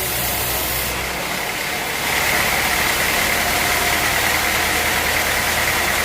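Sawmill machinery running steadily with an engine-like drone; about two seconds in it gets louder and a steady high whine comes in and holds.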